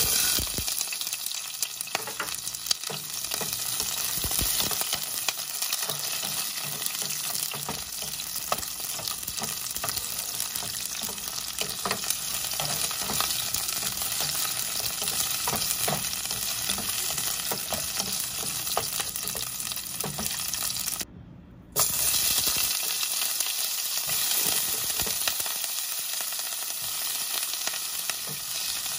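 Chopped bell peppers sizzling and crackling in hot oil in a nonstick pot as a wooden spatula stirs them. After a brief drop-out about three-quarters of the way through, raw shrimp sizzle in the oil.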